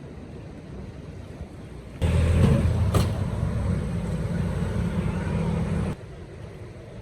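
A low engine rumble that cuts in suddenly about two seconds in and cuts out just as suddenly about four seconds later, with a sharp click partway through, over a steady background hiss.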